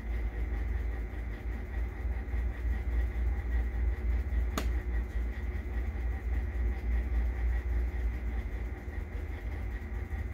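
Steady low rumble and hum of air-conditioning airflow, with a single sharp click about halfway through.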